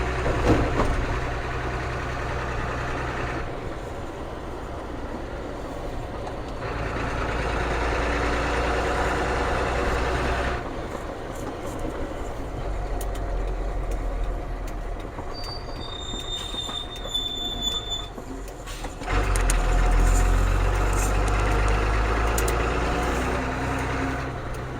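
Ford CF7000 truck's 6.6-litre diesel running while driving. Its low drone comes in louder stretches broken by quieter spells. A few brief high-pitched squeals are heard a little past the middle.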